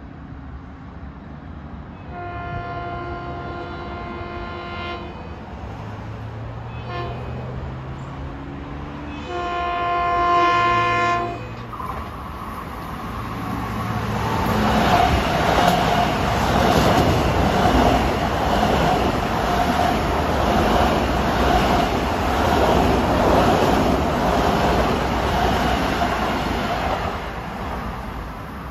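Long Island Rail Road M7 electric train sounding its horn three times as it approaches: a long blast, a short one, then a louder long one. The train then runs past the platform with a loud rushing rumble of wheels on rail and a steady whine, which fades near the end.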